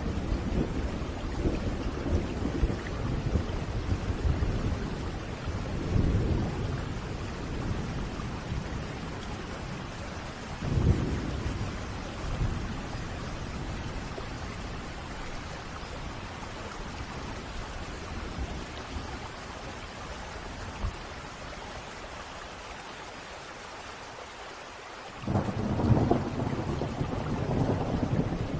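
Thunderstorm: steady heavy rain with rolling thunder rumbles, a sharper clap about eleven seconds in, a quieter spell of rain alone, then a loud thunder roll breaking in about twenty-five seconds in.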